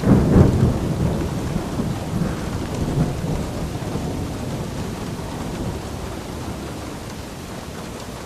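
A thunderclap cracks at the start and rolls off in a low rumble that fades over several seconds, over steady rainfall.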